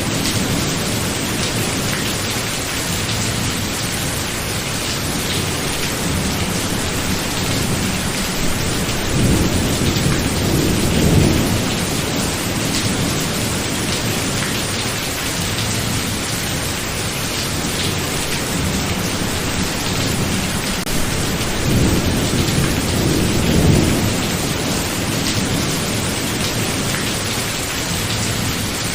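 Steady heavy rain with rolling thunder: two long, low rumbles swell up and fade, one about ten seconds in and another a little past twenty seconds.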